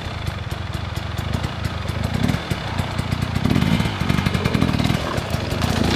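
Enduro dirt bike engine running at low revs, with repeated blips of throttle that swell and fall away.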